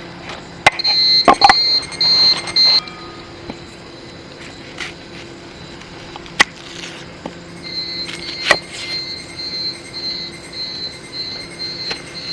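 An insect chirping: high, even pulses about two a second, in a run near the start and another through the second half. A few sharp clicks and knocks of handled gear fall between them.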